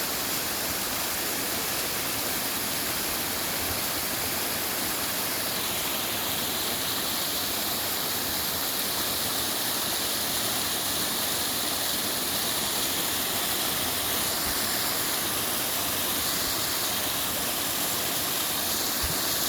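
Mountain valley stream with water rushing steadily.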